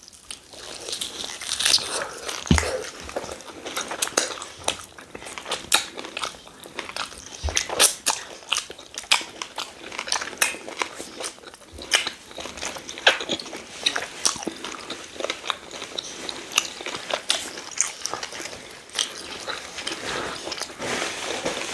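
Close-up eating sounds of rice, stew and goat meat being chewed and bitten, with many irregular small clicks and crunches.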